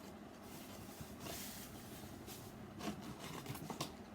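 Handling of unboxed accessories and their plastic packaging: a faint rustle, then a few light clicks and taps.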